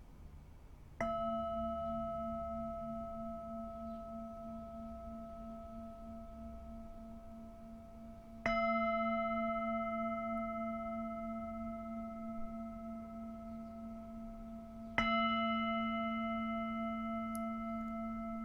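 Singing bowl struck three times, about seven seconds apart, each strike ringing on with a low wavering tone and several higher overtones that slowly fade.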